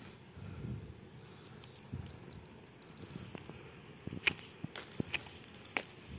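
A few sharp clicks and snaps from about four seconds in, typical of pruning shears cutting durian branches, over faint steady insect chirring.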